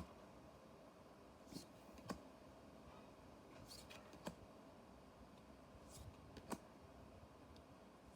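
Faint handling of trading cards and a booster pack: a scattering of light clicks and snaps, about seven in all, over a steady low fan hum.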